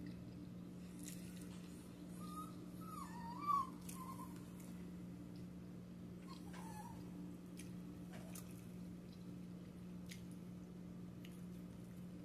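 A pet's short, wavering high-pitched cries, about two seconds in and again near seven seconds, over a steady low hum and scattered faint clicks.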